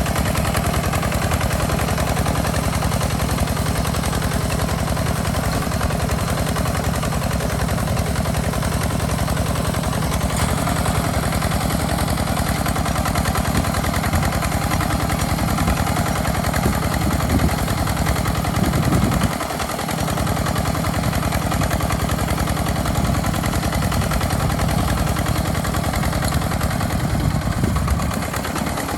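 Walking tractor's single-cylinder diesel engine running with a rapid, even knocking exhaust while it pulls a plow through sandy soil. It eases briefly twice, about two-thirds of the way in and near the end.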